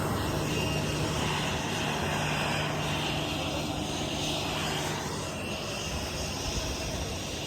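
Airliner engine noise heard from inside the cabin: a steady drone with a low hum under it that fades about five seconds in.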